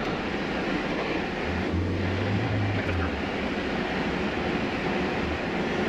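Polaris Ranger Northstar side-by-side driving off in four-wheel drive, heard from inside its closed cab: a steady rush of engine, cab heater blower and wind, with a low engine drone that swells about a second and a half in and drops back about three seconds in.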